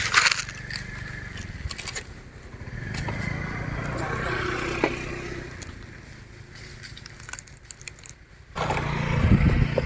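A motor engine running, its low steady hum growing louder after a few seconds, fading, then returning suddenly and loudly near the end.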